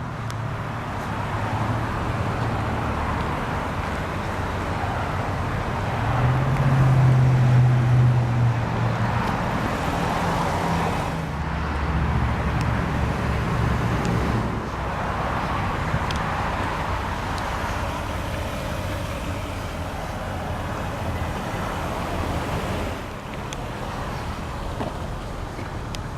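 BMW 740i's 4.4-litre V8 idling with a steady low hum, swelling louder for a few seconds about six seconds in.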